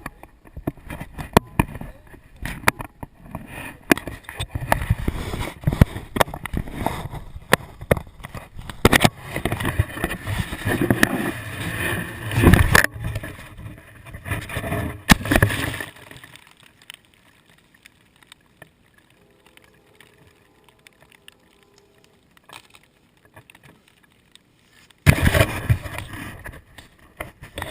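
Dirt bike riding picked up roughly by the microphone: rumbling with many knocks and bumps for the first half. About halfway through it drops to a faint hum, and near the end there is another loud burst of rumble.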